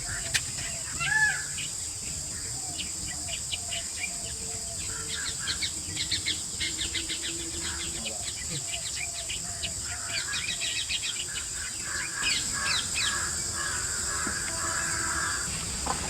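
Forest birds calling: a series of short repeated call notes, a rising call about a second in, and clusters of quick high chirps, over a steady high-pitched buzz.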